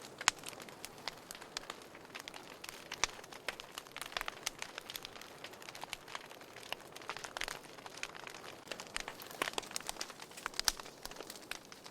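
Wood fire crackling in a fireplace: frequent irregular sharp pops and snaps over a soft steady hiss.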